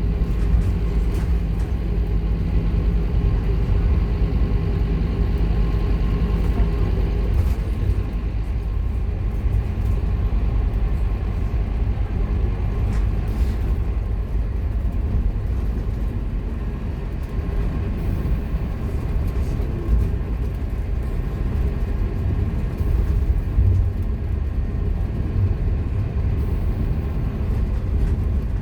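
Scania K230UB Omnilink bus's five-cylinder diesel engine running under way, heard on board as a steady low drone with road noise. A steady low engine tone fades out about seven seconds in.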